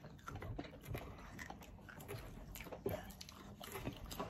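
A person eating up close: chewing a mouthful, with small irregular clicks and mouth sounds.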